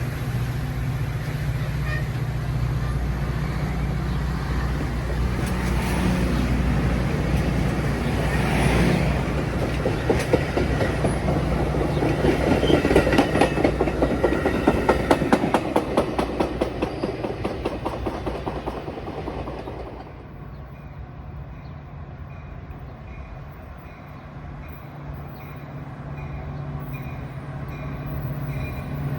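A train passing: a steady low engine rumble, then a fast, even clatter of wheels over rail joints that is loudest near the middle and fades out about two-thirds of the way through, leaving a quieter rumble.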